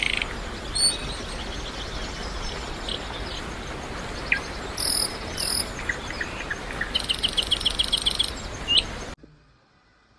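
Outdoor nature ambience: a steady hiss with scattered bird chirps, and a fast trill of repeated notes about seven seconds in. It cuts off suddenly about nine seconds in.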